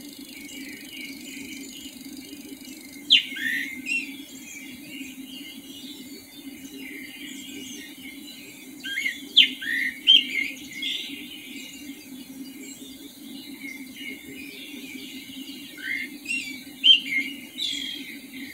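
Birds calling in the pre-dawn dark: sharp chirps and quick downward-sweeping calls, coming in three loose clusters about 3 s in, around 9 to 11 s in, and near the end. A steady low hum runs underneath.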